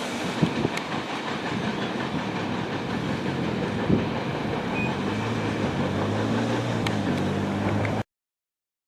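Norfolk Southern freight train rolling past, a steady rumble of its cars on the rails, with a low steady drone joining about five seconds in. The sound cuts off abruptly about eight seconds in.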